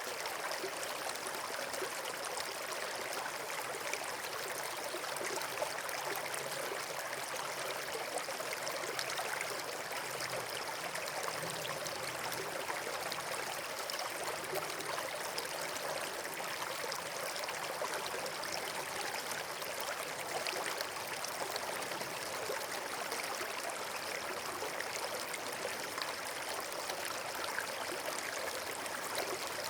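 Steady rushing of flowing water, like a stream or small waterfall, running evenly without a break.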